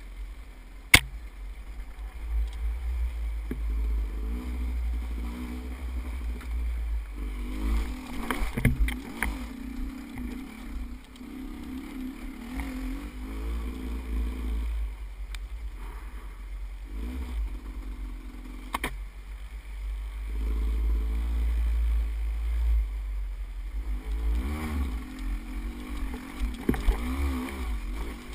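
Motorcycle engine revving up and down in uneven bursts while riding a rough, wet trail, over a steady low rumble, with a few sharp knocks, the loudest about a second in.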